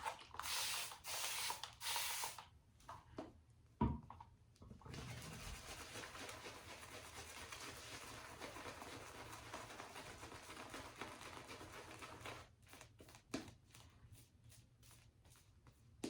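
Synthetic shaving brush working lather, the bristles rubbing and swishing: a few short strokes at first, a knock about four seconds in, then steady swirling for about seven seconds, ending in a few scattered light taps.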